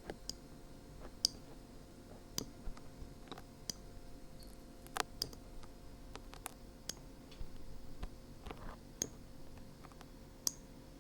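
Dried glue being peeled off the ear of a binaural microphone, right against the mic: sparse sharp crackling clicks, about one a second.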